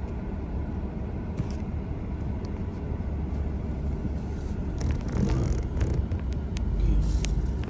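A moving vehicle's steady low engine and road rumble, with a few sharp clicks or rattles in the second half and the rumble swelling about seven seconds in.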